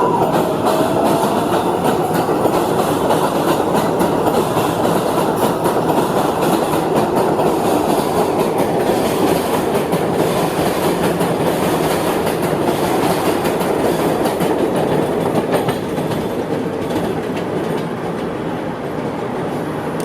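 Subway train running on the tracks: a loud, steady rumble with fast clacking of wheels over the rails and a high squeal near the start that slides down in pitch, easing off a little after about fifteen seconds.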